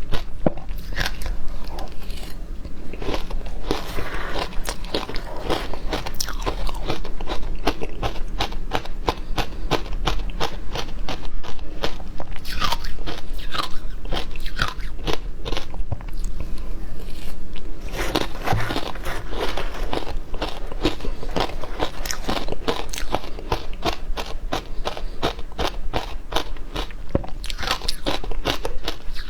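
Frozen matcha ice being bitten and chewed: a dense, continuous run of sharp crunches and cracks.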